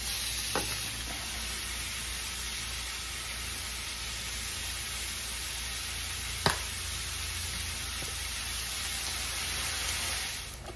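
Shrimp and sliced onions sizzling in a hot skillet: a steady frying hiss that cuts off abruptly near the end. A single sharp click stands out about six and a half seconds in.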